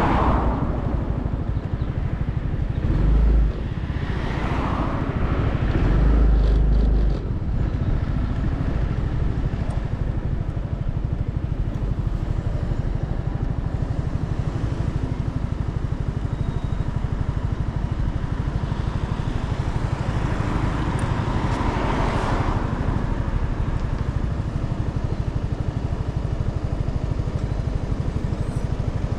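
Motorcycle engine running steadily while riding in traffic, with a constant low rumble. Two short surges of low rumble come about three and six seconds in, and other vehicles swell past a few times, the loudest about twenty-two seconds in.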